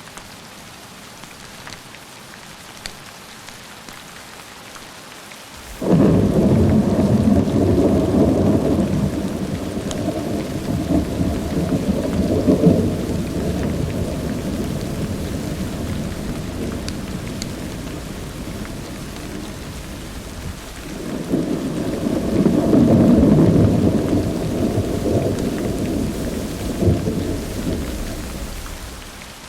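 Steady rain, then about six seconds in a sudden loud crack of thunder that rolls on as a long low rumble, eases, swells into a second peal a little after twenty seconds and dies away near the end.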